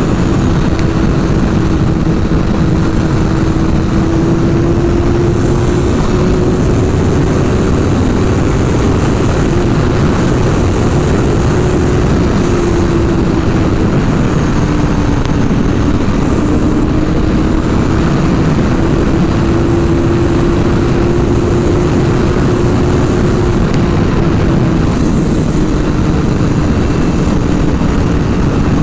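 Sport motorcycle engine running at a steady cruising speed, its pitch drifting gently up and down, under heavy wind noise on the microphone.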